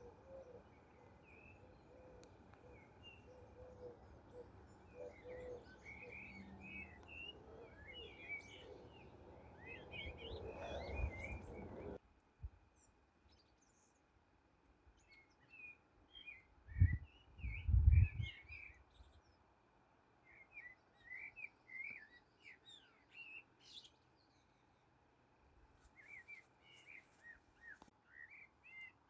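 Small songbirds chirping and twittering in short, quick clusters over a low background hum that stops abruptly partway through. A couple of brief low thumps near the middle are the loudest sounds.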